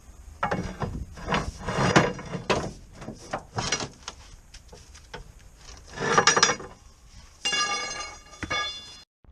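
Irregular metallic knocks and clatter of tools and parts being handled during hands-on car repair work, with a brief ringing metal tone near the end.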